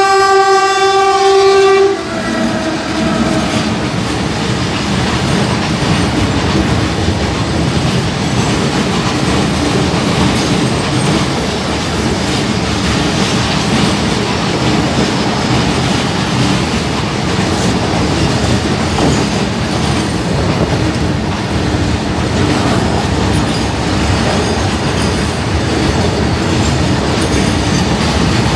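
A locomotive horn sounds one loud, steady blast for about two seconds. Then a loaded goods train runs past close by, a steady rumble with wheel clatter as the wagons go over the rails.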